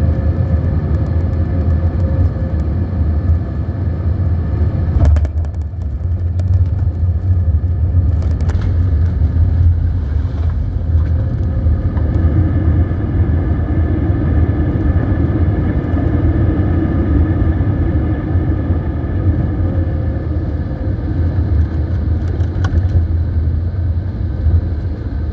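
Cabin noise inside an Airbus A320neo with CFM LEAP-1A engines during landing: a steady low rumble of engines and airflow with several steady tones over it. There is a short knock about five seconds in, and the noise grows a little louder for a few seconds about halfway through.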